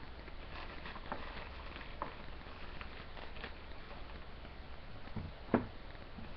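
Plastic shipping package being handled and opened: scattered light rustles and clicks, with one sharper knock about five and a half seconds in, over a steady low hum.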